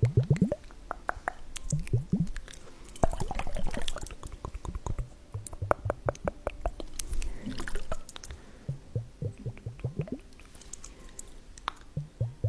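Liquid gurgling and dripping in small glass vials, with many short bubbly tones that rise in pitch, and light clicks of glass.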